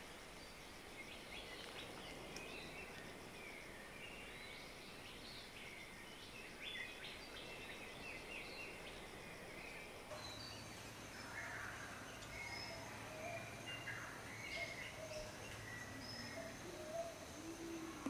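Faint bird calls over garden ambience: many short high chirps and twitters at first. About halfway a low steady hum comes in and the calls become sparser and lower.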